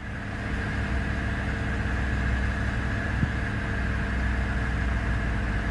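Steady engine drone with a low rumble and a constant high whine, unchanging throughout.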